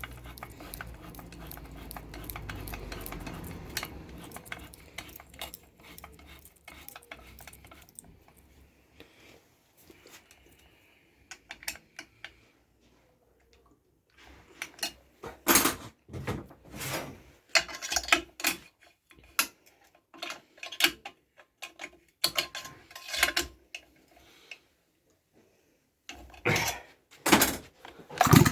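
Metal tools and chainsaw parts clinking and knocking on the bench: a series of sharp clicks that comes thick and fast through the second half, after a low rumble in the first few seconds.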